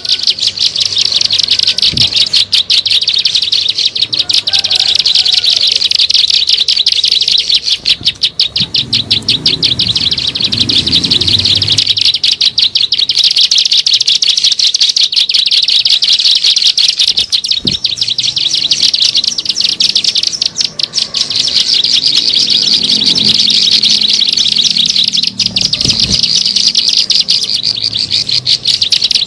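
Ciblek sawah (prinia) song played as a bird-trapping lure: a rapid, unbroken chattering trill of high, sharp notes, many per second.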